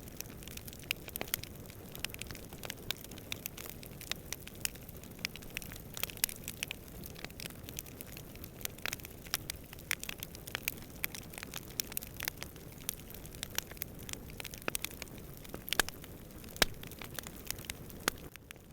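Wood campfire crackling, with frequent sharp pops and snaps over a steady low rush of burning.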